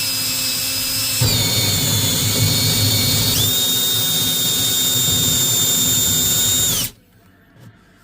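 Electric drill boring a hole through a cabinet wall, its motor whining steadily. Heavier grinding comes in about a second in as the bit bites. The motor pitch jumps up about three seconds in, and the drill stops suddenly near the end.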